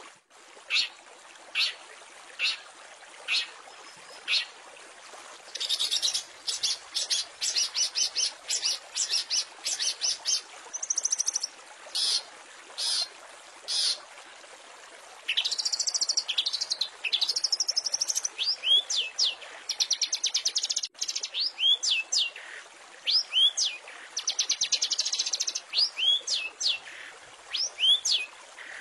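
Long-tailed shrike (cendet) singing a mimicking song: sharp single high notes less than a second apart, then fast rattling trills, and from about halfway repeated down-swept whistles between trills, over a steady faint hiss.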